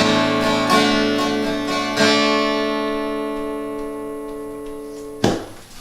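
Acoustic guitar playing the closing strums of the song. The last chord is struck about two seconds in and left to ring out and fade. A sharp knock comes near the end.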